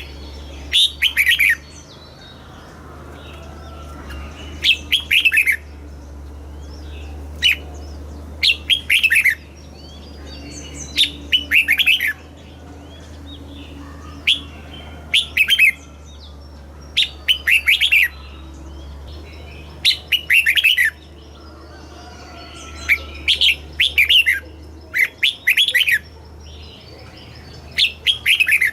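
Red-whiskered bulbul singing: short, bright phrases of quick falling whistled notes, repeated every two to three seconds, over a low steady hum.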